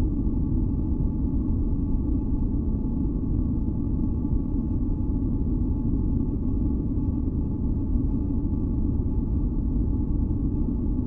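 Steady, deep rumbling noise for sleep and masking, weighted toward the low end, with a few faint held tones above it; it does not change.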